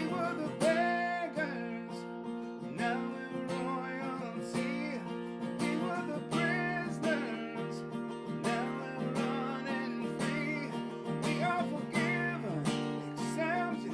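Worship music: strummed acoustic guitar playing a song's instrumental passage with a steady rhythm, with a faint voice at times.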